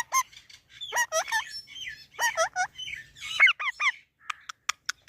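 Pet parrot chattering at its own reflection: a run of short calls that rise and fall in pitch, mixed with chirps, followed near the end by a few short sharp clicks.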